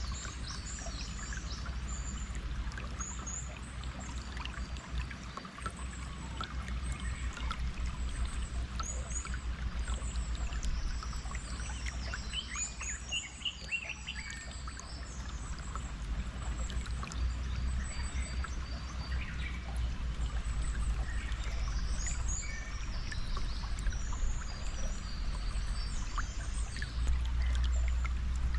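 Running stream water trickling steadily, with small birds chirping and singing throughout.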